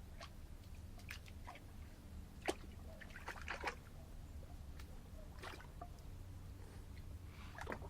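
Boston terrier–French bulldog mix splashing about in the shallow water of a bird bath: scattered small splashes and drips, the sharpest about two and a half seconds in and a quick run of them a second later.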